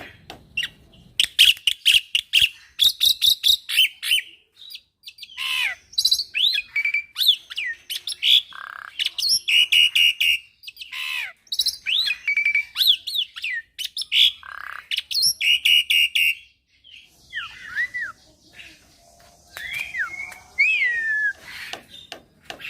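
Young black-winged myna (jalak putih) singing a varied song packed with learned notes: fast trains of repeated chattering notes, high sweeping whistles and harsh calls, in phrases with short pauses between them.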